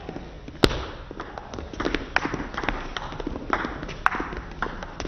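Table tennis rally: the ball knocking back and forth between rackets and table in a quick, irregular series of sharp clicks. The loudest hit comes about a second in.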